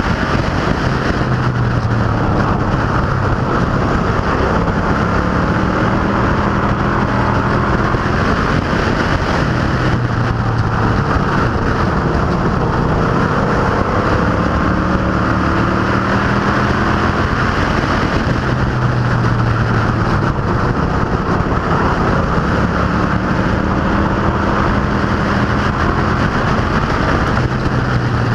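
Street stock and pro truck race cars running at speed on a short oval. Engine pitch rises in long slow sweeps several times as the cars accelerate, over a steady loud engine drone.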